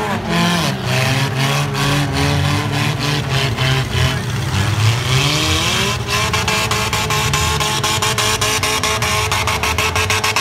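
Several four-cylinder demolition derby car engines revving, their pitch rising and falling. From about six seconds in, a fast, steady ticking rattle joins them.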